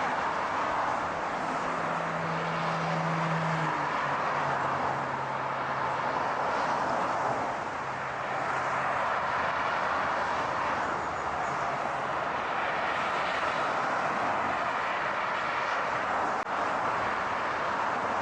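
Steady car noise: an even rush of road and engine sound, with a low engine hum that drops a little in pitch about four seconds in and fades out around twelve seconds.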